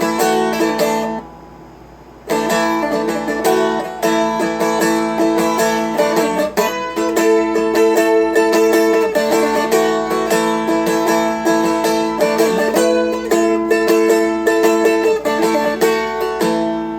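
Seagull Merlin M4, a four-string strumstick, strummed in full chords. It stops for about a second near the start, then the strumming resumes and runs on steadily.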